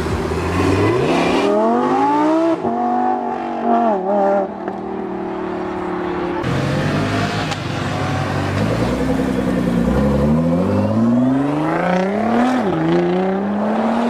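Supercar engine accelerating hard through the gears. Its pitch climbs steeply and drops at each upshift, in two pulls: one in the first four seconds, and a second from about nine seconds in.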